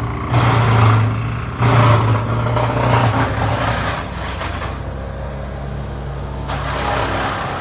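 A large engine running, surging hard three times in quick succession and then settling to a steadier, lower run.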